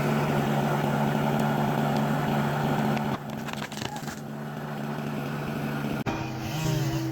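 An engine running steadily at a constant pitch. The sound changes abruptly about three seconds in and again about six seconds in, where a different engine hum takes over.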